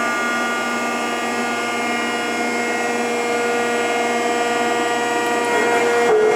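Rockford 36-inch hydraulic open-side planer's hydraulic drive running with a steady multi-toned whine, on its first run after some 30 years in cold storage. Near the end the sound breaks briefly and the lower tone dips.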